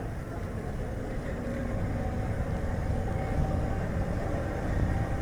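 Light car driving along a road: a steady low rumble of tyre and road noise, with wind buffeting the microphone.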